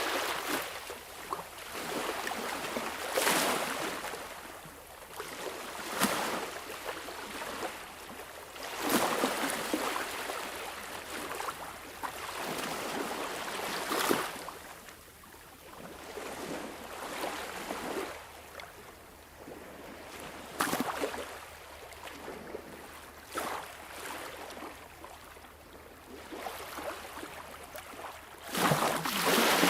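Sea waves washing in and breaking, rising and falling in irregular surges every few seconds, with a few sharper splashes.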